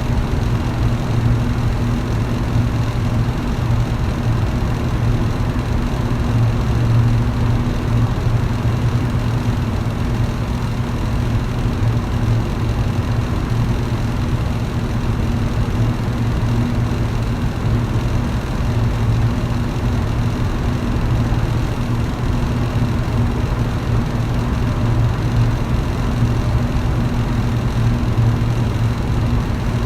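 Electric fan running steadily: a low, even motor hum under a constant rush of air.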